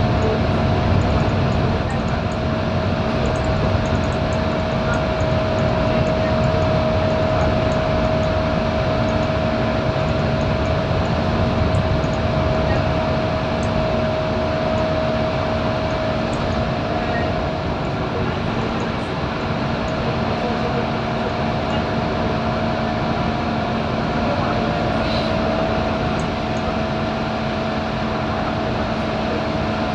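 Scania K230UB single-decker bus running steadily under way, its nine-litre five-cylinder diesel and drivetrain giving a continuous drone. A steady whine sits over it and edges up in pitch in the second half.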